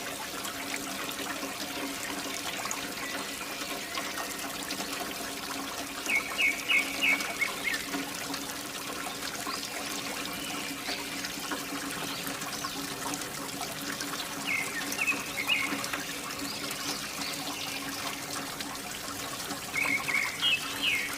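Water pouring and splashing steadily from a pump outlet, over a steady hum. A bird calls in short runs of quick chirps three times.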